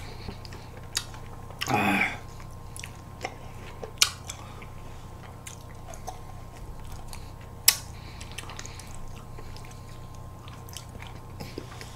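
Close-up mouth sounds of people eating ice cream: chewing, with a few sharp clicks, the loudest nearly 8 s in. A short murmur of voice about 2 s in.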